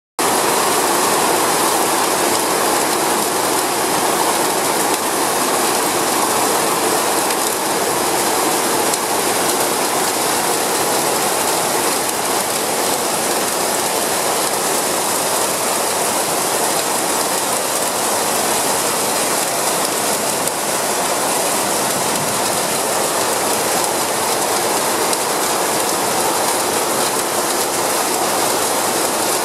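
Heavy rain pouring down steadily on corrugated metal roofs and a paved courtyard, a dense, unbroken patter with runoff spilling from the roof edges.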